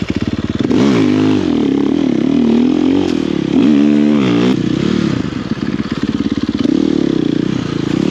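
Snow bike's single-cylinder engine revved up and down again and again while the bike is sunk in deep snow with no traction, trying to dig itself out.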